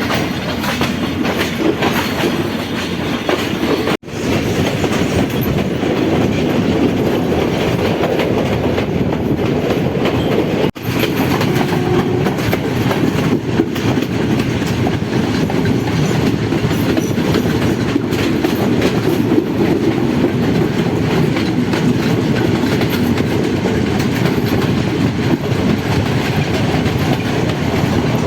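Passenger train running along the track, a steady rumble of wheels on rails with a clickety-clack over the rail joints. The sound cuts out for an instant twice, about four seconds in and again about eleven seconds in.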